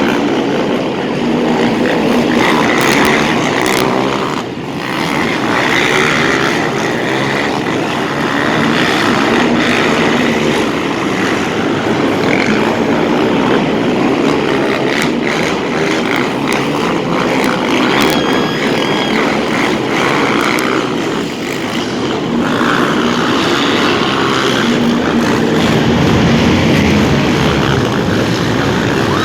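Several quad ATV engines racing together, loud and continuous.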